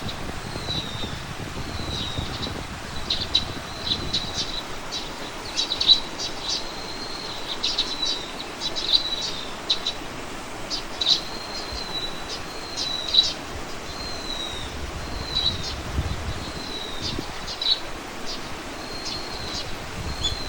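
Small birds chirping and singing: a run of short high notes, some gliding slightly down, mixed with sharp clicky calls and repeating every second or so. A low rumble sits underneath.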